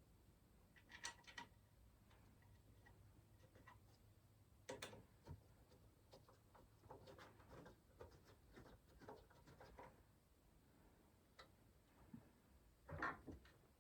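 Faint, irregular small clicks and taps of PC parts and cables being handled while a power supply is fitted into the case, with a few louder knocks about a third of the way in and near the end.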